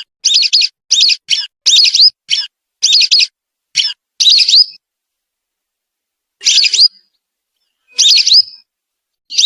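Whistling duck (belibis) calls: a quick run of short, high whistled notes, then a pause and single calls about a second and a half apart.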